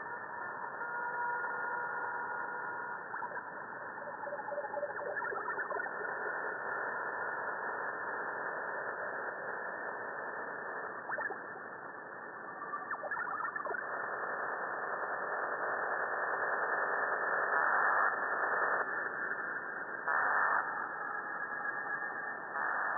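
Shortwave radio reception, narrow and hissy with a steady noise floor. A few faint steady tones sound in the first few seconds, and scattered clicks and louder bursts of static come later.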